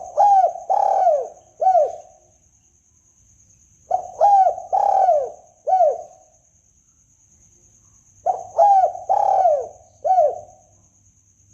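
Spotted dove cooing: three phrases about four seconds apart, each of four notes.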